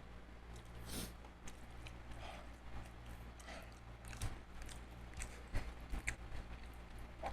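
Close-miked eating of seafood: irregular chewing and biting with short wet clicks and smacks, over a steady low hum.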